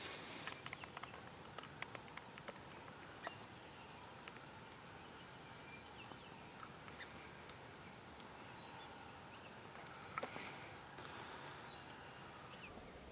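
Quiet spring woods ambience: distant songbirds chirping now and then over a faint hiss, a few light clicks in the first few seconds, and one brief louder call about ten seconds in.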